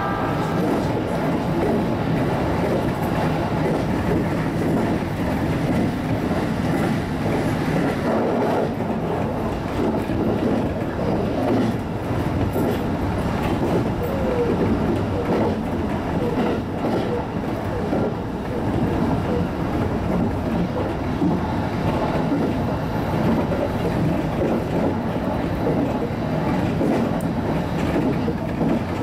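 JR East HB-E210 series hybrid railcar running at speed, heard from inside the front of the train: a steady rumble of wheels on the rails with running noise and no pauses.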